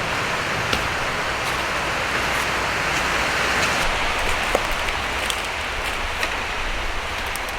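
Sea surf washing on the shore: a steady rush that swells around the middle and then eases, with a few faint clicks.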